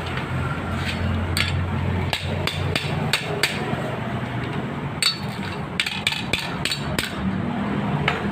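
Hammer strikes, about fifteen sharp irregular blows in two runs with a pause about four seconds in, over a low steady hum.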